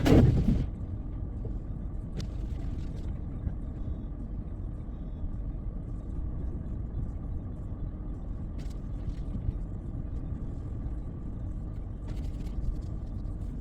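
Steady low rumble of a car idling, heard from inside the cabin in a car-wash bay. It opens with a brief loud rush in the first half-second.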